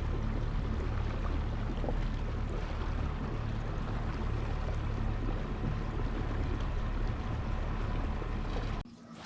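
A kayak under way: a steady rush of water and wind noise with a low, steady hum. It cuts off suddenly near the end.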